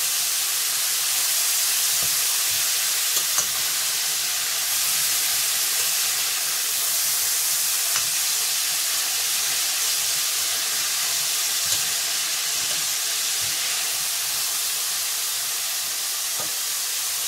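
Meat and chopped vegetables sizzling in oil in a stainless steel pot, a steady hiss, while they are stirred with a spoon that clicks against the pot now and then.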